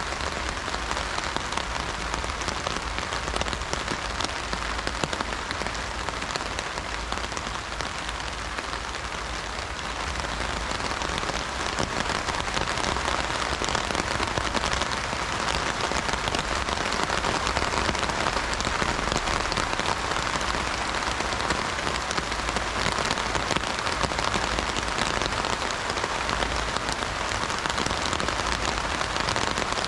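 Rain falling on an umbrella canopy: a dense, steady patter of countless drops that grows a little heavier about ten seconds in.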